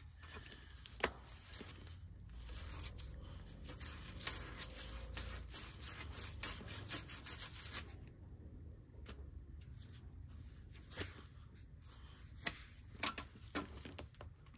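Faint scattered clicks, ticks and scraping of hand tools on metal fittings as a flexible gas connector is fitted back onto a furnace gas valve. A low hum underneath stops about five seconds in.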